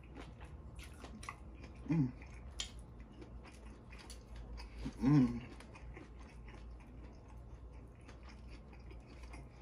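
Wet chewing and lip-smacking of a person eating sauce-dipped lobster meat, with many quick mouth clicks. Two short hummed 'mm' sounds come about two and five seconds in.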